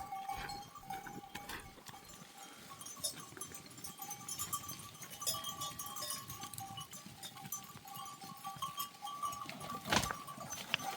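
A herd of goats and sheep with bells on, the bells clinking lightly, and one sharp knock about ten seconds in.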